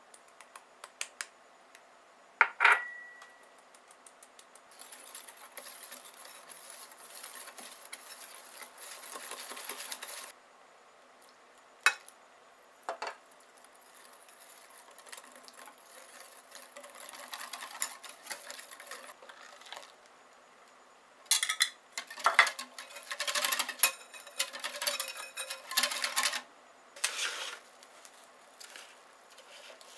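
Kitchen utensils working in a bowl while ingredients are mixed: a single clink with a short ring a couple of seconds in, then stretches of scratchy stirring, and a run of quick clattering knocks near the end.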